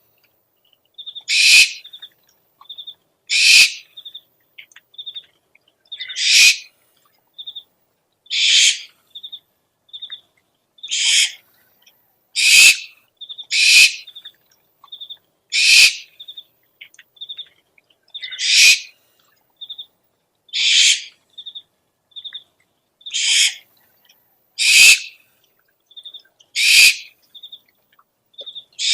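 Owl calls from a lure recording: a loud, harsh screech about every one to three seconds, with short, high chirping notes, often in pairs, in between.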